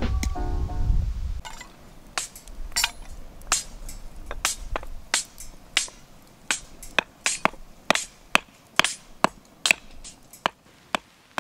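Wood fire crackling in a secondary-combustion fire pit: sharp, irregular pops and snaps, a few a second. It starts as background music fades out about a second and a half in.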